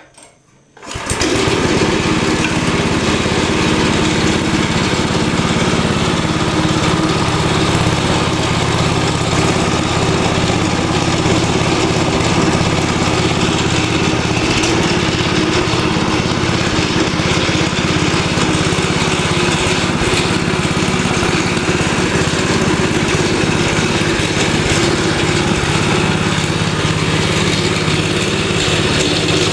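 Feed-processing machine starting up about a second in, then running steadily and loudly with an even mechanical hum and clatter.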